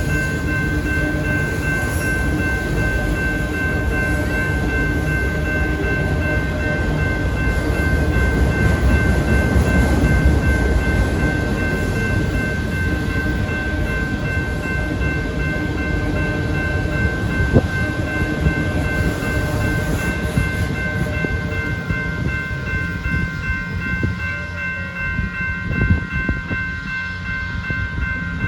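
A train rolling through a grade crossing: a steady heavy rumble of wheels on rail that swells a third of the way in and eases near the end, with a couple of sharp clanks. Steady high ringing tones run under it throughout.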